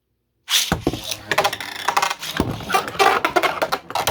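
3D-printed Beyblade spinning tops battling in a stadium: a sudden start about half a second in, then continuous spinning scrape with frequent sharp clashing hits.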